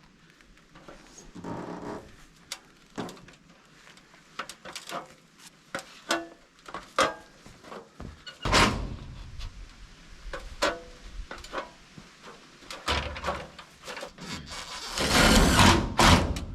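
Irregular knocks and thunks of metal roofing panels being handled and fastened on a lean-to roof, with louder noisy stretches near the middle and toward the end.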